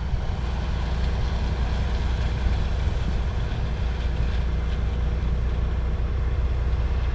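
Dump truck's diesel engine running steadily, with an even rushing hiss of gravel pouring out over the open tailgate as the load is spread.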